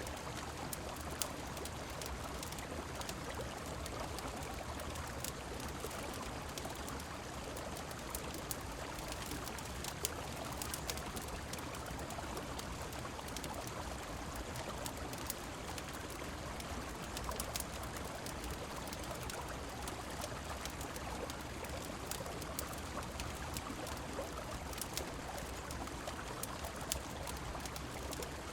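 Steady rush of river water and rainfall, with scattered sharp crackles and pops from a wood fire.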